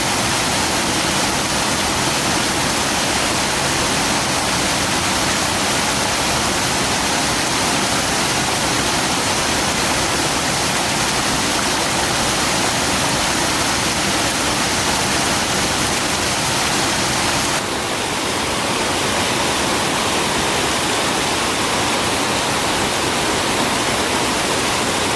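Rushing water of a waterfall: a steady, loud, even rush. Its tone shifts slightly about eighteen seconds in.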